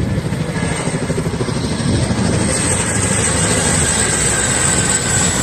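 Boeing CH-47 Chinook tandem-rotor military helicopter in flight: a steady, rapid beat from its two rotors, with a faint high turbine whine that slowly falls in pitch.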